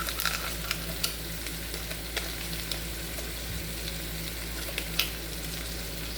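Chicken, onions and bell peppers sizzling steadily in a pan with tomato paste, with a few scattered crackling pops. A low steady hum runs underneath.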